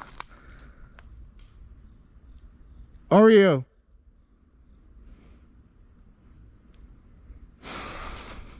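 Steady high-pitched chirring of insects. A loud shout cuts across it about three seconds in, and a brief rustle comes near the end.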